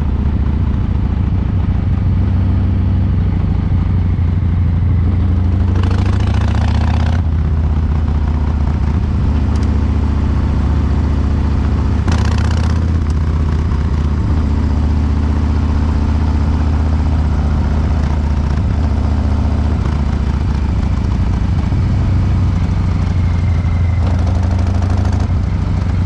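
Harley-Davidson Breakout's Milwaukee-Eight 114 V-twin running steadily through COBRA Neighbor Hater slip-on mufflers. Its fuel injection is tuned for a loping three-beat rhythm. Two brief rushes of noise come about six and twelve seconds in.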